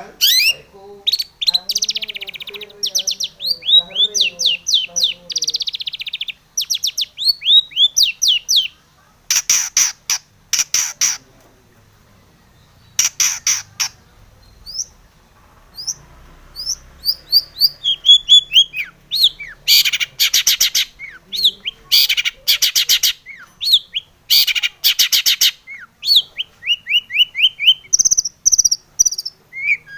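Long-tailed shrike (cendet) singing a varied song: quick runs of high, sharp notes and short falling sweeps, broken by dense harsh rattling bursts, with a couple of brief pauses in the middle.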